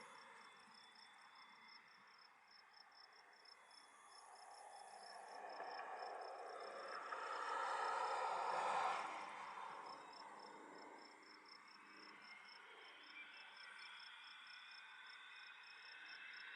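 Insects trilling steadily in a rapid, high-pitched pulsed chirp. Under it, a broad rushing noise swells to its loudest about eight seconds in, then fades, and builds again near the end.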